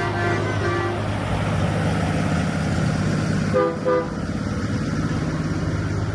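Truck horns tooting in short blasts over the steady low rumble of a truck engine: a few quick toots in the first second, then two short toots a little past the middle.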